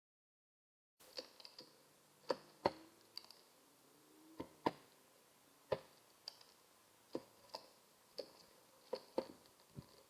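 About a dozen irregular sharp taps on a hard surface, starting about a second in: birds' beaks tapping, as pigeons and sparrows do when pecking.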